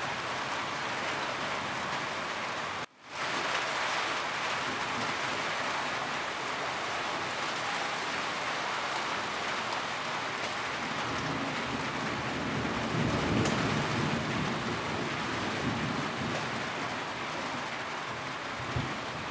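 Steady, even rain falling on a roof. About three seconds in, the sound cuts out for an instant and comes back. A low rumble swells and fades away past the middle.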